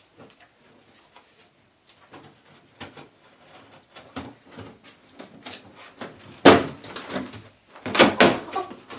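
Scattered light knocks and clicks from objects being handled, with two loud bangs about six and a half and eight seconds in.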